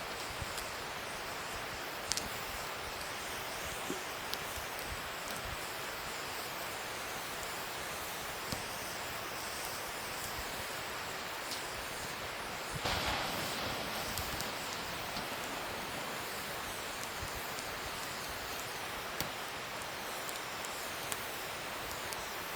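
Wood fire burning with a steady hiss and scattered sharp crackles and pops, and a louder rush of flame for about a second and a half around the middle.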